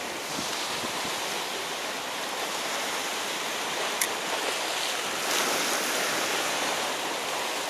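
Sea surf washing on a rocky shore, a steady rush of waves, with one sharp click about four seconds in.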